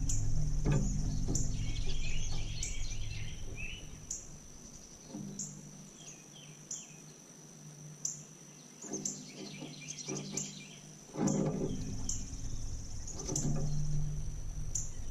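Small songbirds at a feeder giving short bursts of twittering chirps, twice, over a steady high insect trill that pulses about every two-thirds of a second. A low hum is loud at the start, fades out in the middle and comes back near the end.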